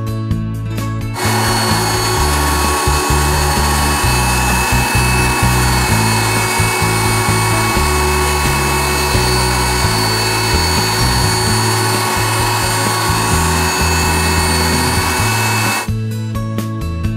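Water extraction vacuum running loudly with a rushing hiss and a steady whine, starting about a second in and cutting off near the end, over background music with a guitar strum.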